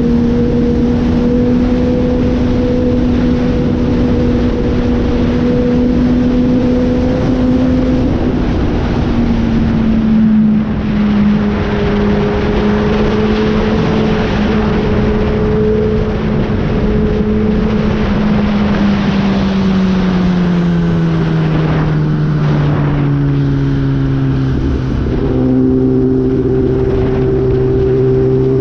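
Kawasaki ZX-10R inline-four engine running at steady revs under heavy wind noise. The revs dip slightly about nine seconds in, then fall steadily over several seconds from about nineteen seconds in as the bike slows, and settle at a lower pitch.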